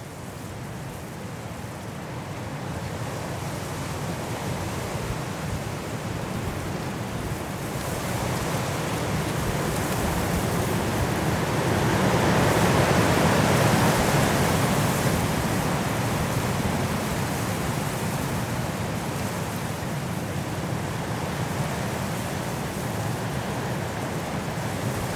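High wind blowing through trees in a snowstorm: a steady rushing that swells into a stronger gust about halfway through, then eases.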